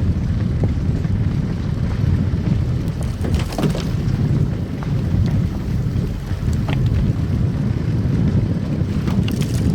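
Car driving on a snow-covered road: a steady low rumble of tyres and engine, with a few light crackles, one about a third of the way in and another near the end.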